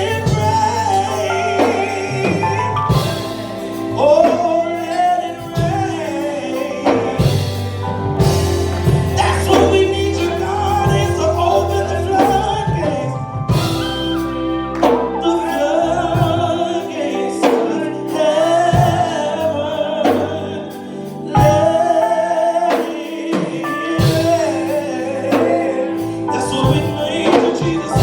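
Gospel praise singing with a band: voices sing over held keyboard or organ chords and a steady drum beat.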